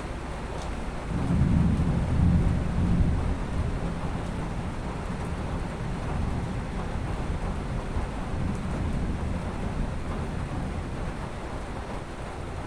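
Thunder rumbling: a low rumble swells about a second in, is loudest for a couple of seconds, then rolls on more faintly, over a steady hiss of rain.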